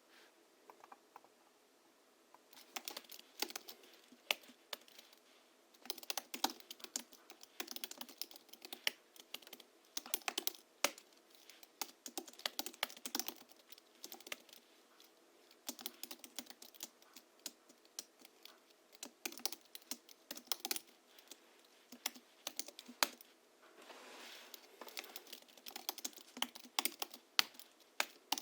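Typing on a Hansung GHL-5X keyboard modded with Krytox-lubricated springs and 50 g rubber domes: runs of quick key clicks broken by short pauses, with a few louder single strokes, after a quiet first two seconds.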